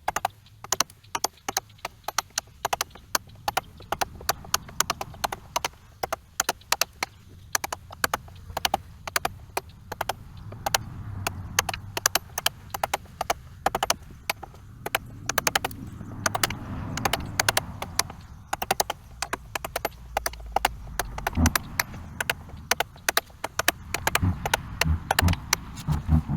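Hammer striking a chisel, chipping away at a sawmill part in many quick, irregular taps.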